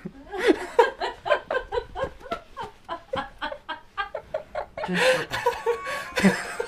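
A person laughing in a long run of short, quick bursts, about three or four a second, turning breathier near the end.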